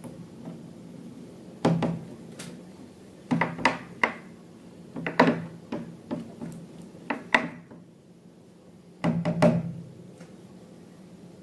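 A series of irregular knocks and taps in short clusters, as of objects being handled and set down.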